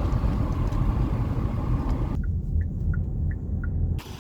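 Steady low rumble of a vehicle ride. About halfway through it turns muffled, and five short evenly spaced beeps sound over it. The rumble cuts off abruptly near the end.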